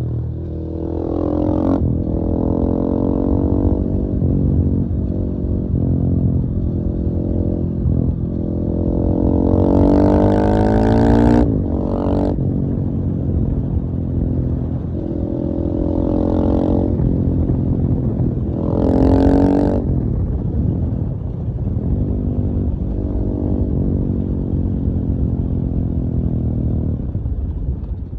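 KTM 450 EXC-F's single-cylinder four-stroke engine running and accelerating repeatedly, its pitch climbing and then dropping back each time the throttle is closed. The two longest climbs come about ten seconds in and again near twenty seconds, with shorter blips in between.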